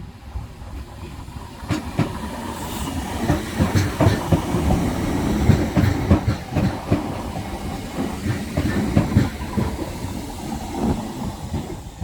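A Southern Class 313 electric multiple unit passing over the level crossing, its wheels clacking over the rail joints and crossing above a steady low rumble. The clacks build up about two seconds in and thin out towards the end.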